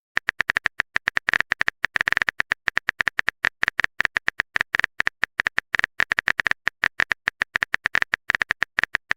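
Rapid, irregular clicks of a keyboard-typing sound effect, several to about ten a second, as chat text is typed out.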